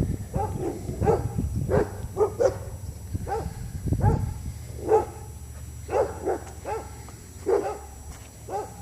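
Dogs barking repeatedly in short, separate barks, about one or two a second with brief gaps, over a low steady hum.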